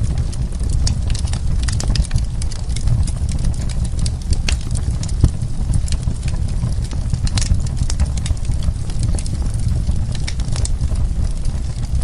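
Wood fire burning, with many irregular sharp crackles and pops over a steady low rumble.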